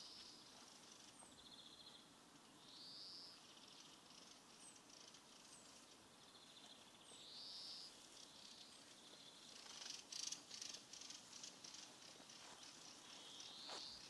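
Faint outdoor birdsong: a buzzy, rising call repeated four times, with thin high chirps in between. A few footsteps sound about ten seconds in.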